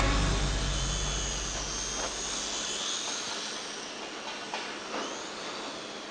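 Faint high whine of a small RC model airplane's electric motor, drifting up and down in pitch, over a steady hiss. Low music fades out during the first few seconds.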